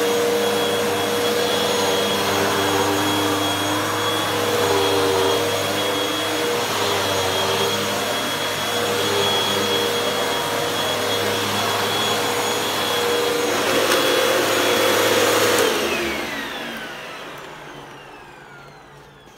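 Hoover WindTunnel 2 upright vacuum cleaner running steadily, then switched off about sixteen seconds in, its motor whine falling in pitch and fading as it spins down.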